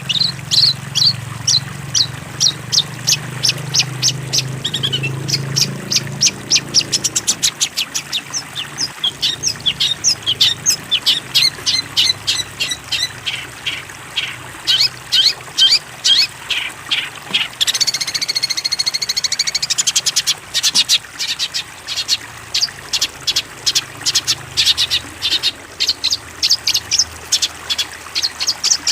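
A songbird calling in fast runs of sharp, repeated chirps, with a brief wavering trill about two-thirds of the way through. A low hum sits under the first several seconds.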